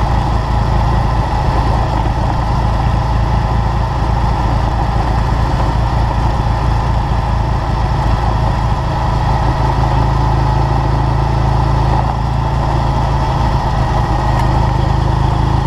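Triumph Thruxton parallel-twin motorcycle engine running steadily at low, even revs as the bike is ridden slowly.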